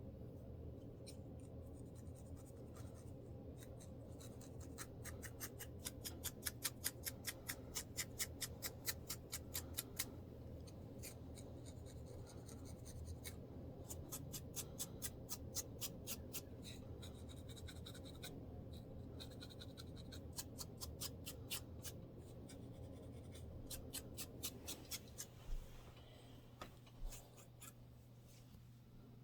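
Dry scratching on a scalp to loosen dandruff, in runs of quick, even strokes several times a second, with short pauses between runs.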